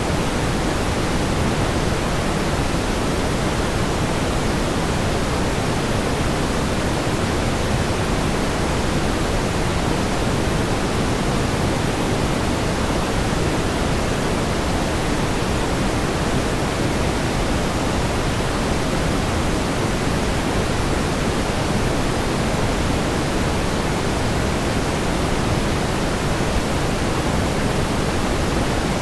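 Steady pink noise: an even, unchanging hiss with more weight in the low end than the high.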